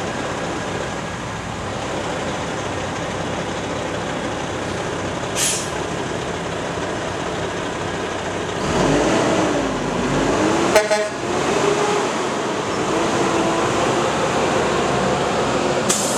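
Mack Granite roll-off truck's diesel engine running steadily, with a short burst of air hiss about five seconds in and another near the end. Around nine seconds in the engine note dips and rises again, and just before eleven seconds there is a single sharp metallic clank.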